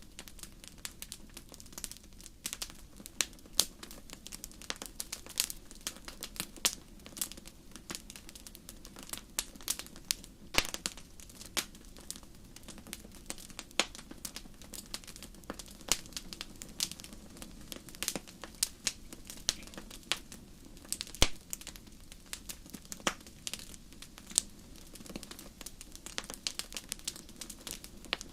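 Wood fire in a fireplace crackling and popping, with irregular sharp snaps over a low steady hiss of the flames.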